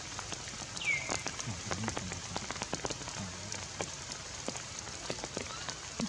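Rain falling steadily, with many separate drops ticking, and one short high falling squeak about a second in.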